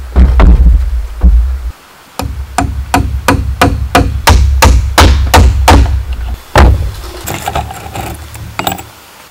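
A tool striking bamboo in quick, even blows, about three a second, with a couple of short pauses, over a steady low rumble.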